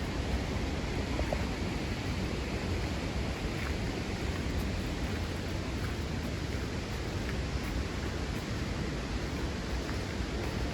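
Steady rushing outdoor ambience with a few faint short ticks.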